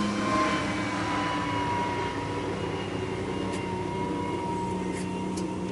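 Mercury outboard motor on a fishing boat running steadily under way, a continuous engine drone.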